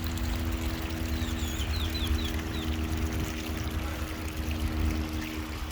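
Steady trickling, pouring water over a low rumble and a faint steady hum. About a second in comes a quick run of high, short, falling bird chirps.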